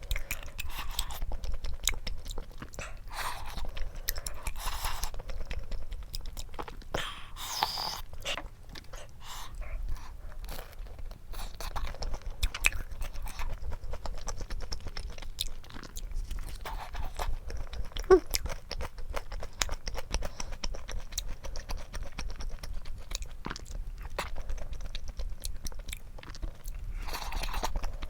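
Close-miked chewing of food, with frequent small crunches and wet mouth clicks throughout.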